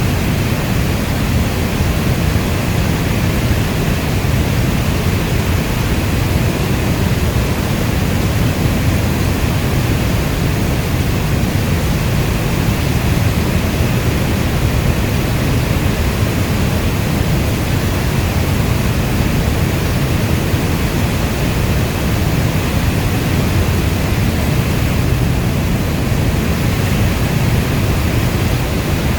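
Steady heavy rain as a continuous, even rushing noise, deep like brown noise, with no separate drops or thunder standing out.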